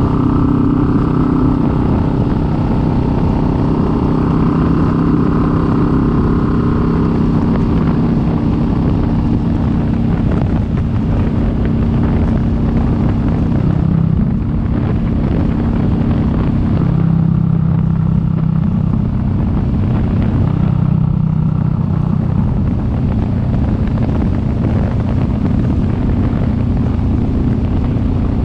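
Kawasaki Vulcan S 650's parallel-twin engine running as the motorcycle rides along. The engine note shifts several times about halfway through.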